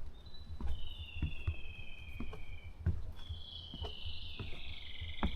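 Footsteps walking on a forest path, about one or two steps a second. Above them, a high trill that falls slightly in pitch comes three times, each lasting around two seconds.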